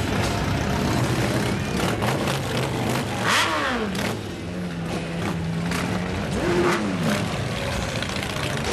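A motorcycle engine revving up and falling back twice, a few seconds apart, with a steady held note in between, over a noisy street background.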